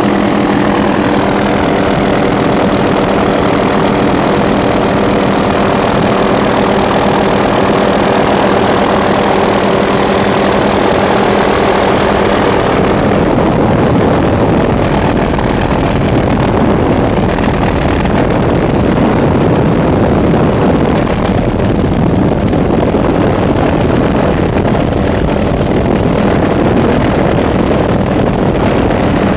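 A steady engine drone with a hum of even tones, giving way about thirteen seconds in to a loud, continuous rushing noise.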